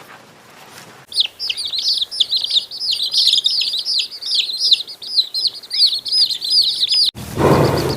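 Small birds chirping in a quick, continuous run of high calls, several a second, starting about a second in. About seven seconds in they cut off abruptly and a louder, lower sound begins.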